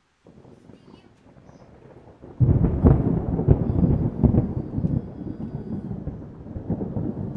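Thunder: a faint low rumble that breaks into a loud rolling crackle about two and a half seconds in, then slowly dies away.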